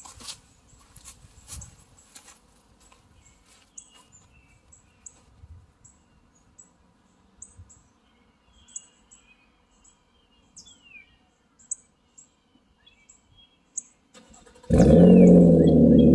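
Birds chirping faintly, with a few soft clicks, then about fourteen and a half seconds in the 2011 Nissan Maxima's 3.5 L VQ35DE V6 starts and runs loud through a custom exhaust: muffler delete, with a glass pack in place of the stock resonator.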